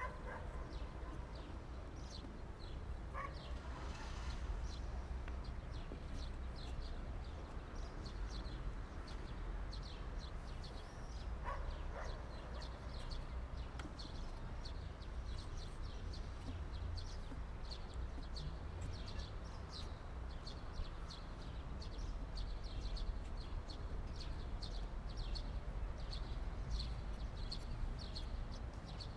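Small birds chirping over and over in quick, high, short notes, over a steady low background rumble.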